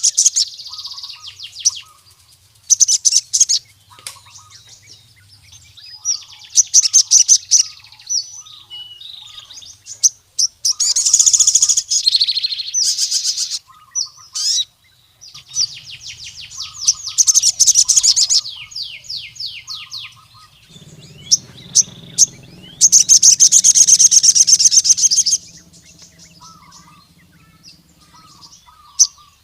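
Male crimson sunbird (sogon) singing a territorial song, the call to a rival male. It comes in repeated bursts of rapid, high-pitched trills a few seconds apart, with the longest and loudest burst about three quarters of the way through.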